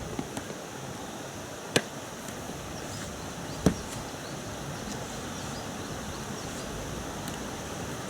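Two sharp knocks about two seconds apart, from the inflatable boat's oars being handled and set in place, over a steady outdoor hiss.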